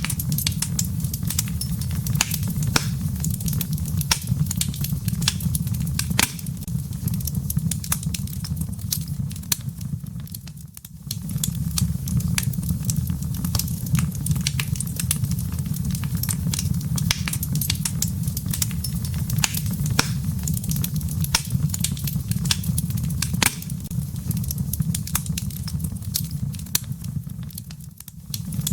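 Wood fire crackling in a fireplace: frequent sharp pops and snaps over a steady low rumble of burning logs. The whole sound briefly dips twice, about eleven seconds in and near the end.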